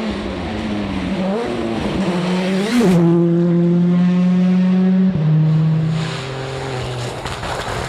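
Rally car engine on a special stage, revving with a couple of quick blips, then held steady at high revs, which is the loudest part. About five seconds in, its note drops in steps and it gets quieter as it backs off.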